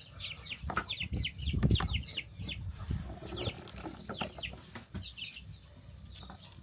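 Chickens calling, a rapid run of short high peeps that fall in pitch, several a second, thinning out towards the end. A few low thuds come about a second or two in.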